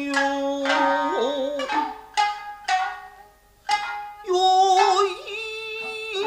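Nagauta music: shamisen plucks under a singer's long held, wavering notes. The sound drops almost away for a moment about three seconds in, then the plucks and a long sung note return.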